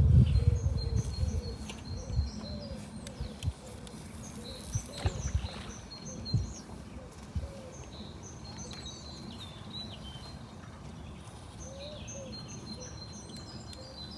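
Small birds chirping and singing repeatedly in the background. A low rumble fades out over the first couple of seconds, and a few soft knocks come in the first half.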